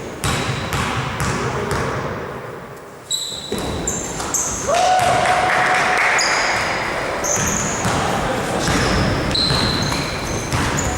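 Basketball game play in a gym hall: the ball bouncing on the court amid sneaker squeaks and player shouts, with the sound echoing in the hall. A held tone sounds for about two seconds a little before the middle.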